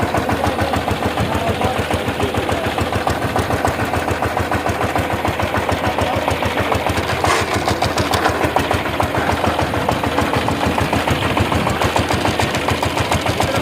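Power tiller diesel engine running steadily, with a fast, even knocking beat.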